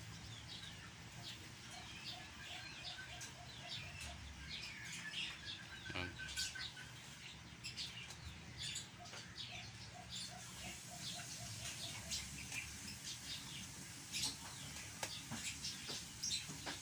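Small birds chirping and twittering in many short calls, with two quick runs of repeated lower notes, one about a second and a half in and one about nine seconds in.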